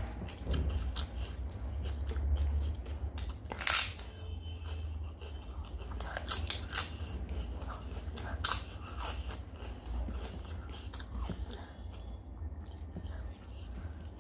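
Close-miked mouth sounds of a person chewing a handful of rice and potato curry, with several sharp crunches of crisp food, the loudest about four seconds in and again around six to seven seconds.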